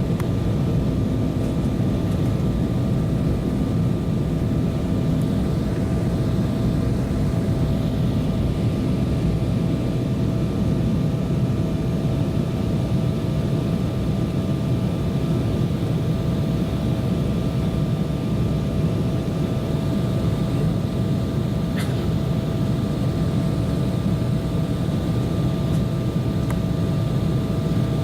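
Steady cabin noise of an Embraer 190 airliner in flight: a constant low rumble of its turbofan engines and airflow, with a faint steady whine above it.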